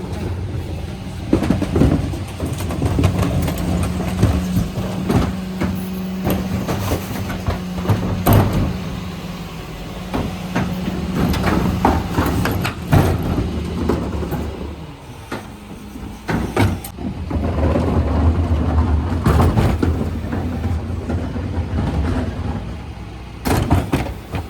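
Mercedes Econic refuse truck with a Faun Variopress body at work: its engine and machinery run with a steady low hum for about ten seconds, under repeated knocks and clatters. A louder low rumble rises near the end.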